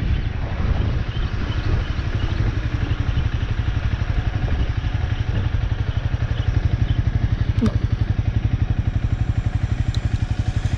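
Motorcycle engine running with a steady, evenly pulsing exhaust note.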